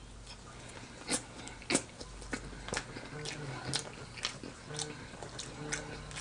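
Close-up chewing of seasoned fries: mouth sounds with sharp, irregular crunches and wet clicks roughly every half second.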